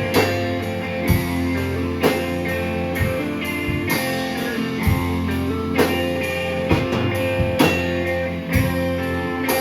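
Rock band playing live: sustained guitar chords over a drum kit, with a heavy drum hit about once a second.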